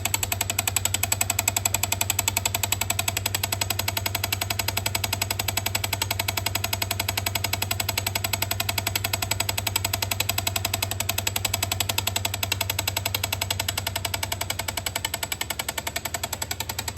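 Water meter making an abnormal rapid, steady rattling with a low hum underneath, the strange noise traced to the meter.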